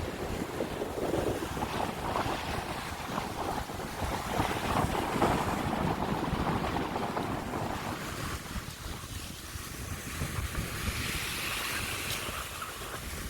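Rough sea surf breaking and washing on the shore, with wind buffeting the microphone; the low rumble of the wind eases about eight seconds in.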